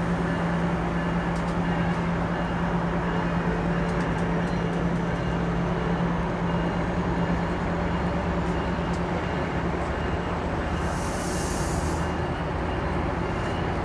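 MARC bilevel commuter train pulling away from the platform: a steady low engine drone and the rumble of the rolling cars, the drone weakening as the train draws off. A short hiss sounds near the end.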